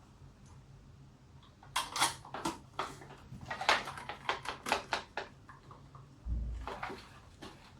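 Rapid series of sharp plastic clicks and clacks from a GoPro camera and its mount being handled, with a low thump about six seconds in and a few more clicks near the end.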